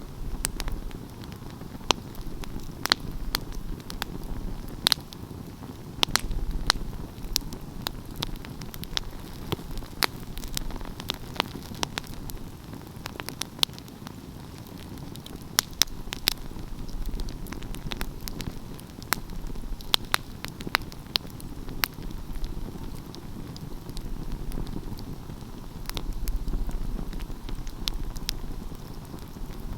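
Wood fire burning steadily, with a low rushing rumble of flame and frequent sharp, irregular crackles and pops from the burning pine logs.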